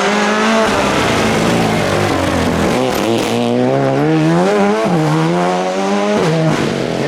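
Rally car engine revving hard on a stage. Its pitch climbs and falls with the throttle and gear changes, with a sharp drop about five seconds in.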